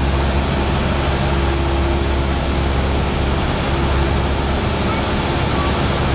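Cessna 172R's four-cylinder Lycoming engine and propeller droning steadily in flight, with a strong low hum and an even rushing noise that holds level throughout.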